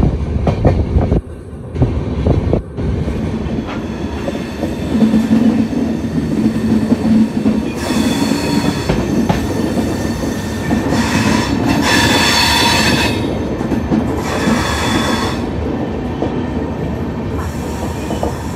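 Express passenger train rolling on its rails, heard from an open carriage doorway: steady wheel rumble with clacking over rail joints, and high squeals from the wheels and brakes about 8 seconds in, again from about 11 to 13 seconds, and once more near 15 seconds as it slows along the platform.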